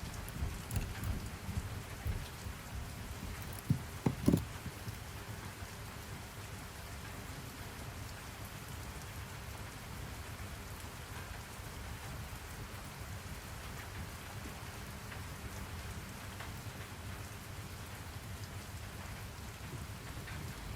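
Steady rain falling, with low rumbles of thunder and a few louder knocks in the first five seconds before the rain settles to an even hiss.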